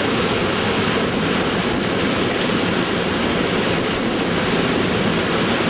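Steady rushing of water pouring over the lip of Victoria Falls on the Zambezi River.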